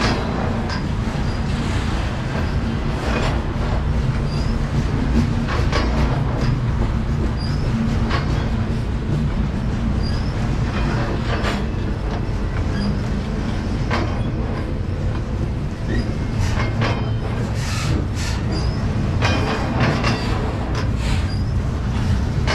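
A train rolling past at close range: a steady rumble of wheels on rail, with irregular clicks and short high wheel squeals.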